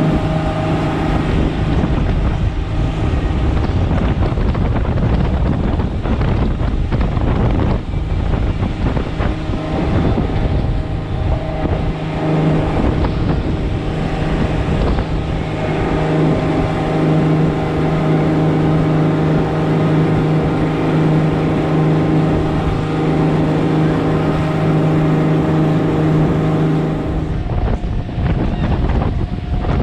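Motorboat engine running steadily under way, with wind buffeting the microphone; the engine note drops off near the end.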